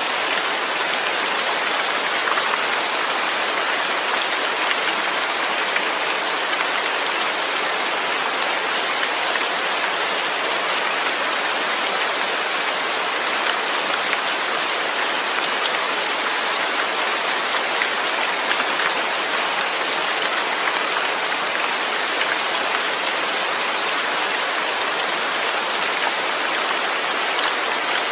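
Steady rain falling, an even hiss of many drops with faint scattered patter, unchanging throughout.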